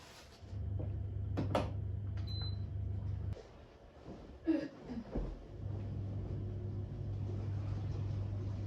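A mains-powered electric appliance hums steadily, falls silent for about two seconds midway and then starts humming again. Household clicks, a short high beep and a knock come during the hum and the pause.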